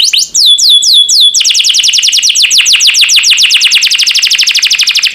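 Domestic canary singing: about four slower, separate falling whistled notes, then a long, very fast trill of evenly repeated descending notes.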